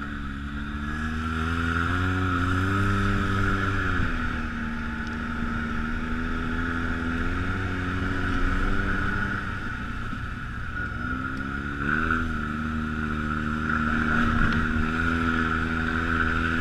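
ATV engine running on the trail, its revs climbing about two seconds in, easing off around four seconds, then climbing again near twelve seconds, over a steady higher hiss.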